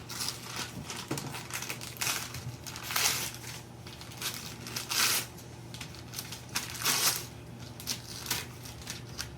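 Wrapping paper crinkling and tearing as a present is unwrapped by hand, in irregular bursts, the loudest about three, five and seven seconds in.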